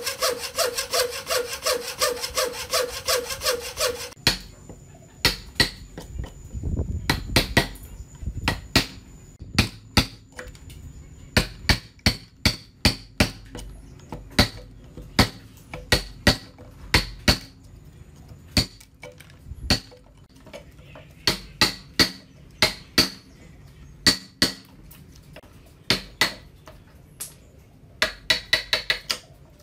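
Hand saw cutting wood in quick, even strokes, which stop about four seconds in. Then sharp knocks and taps on wood follow, singly and in quick runs of several.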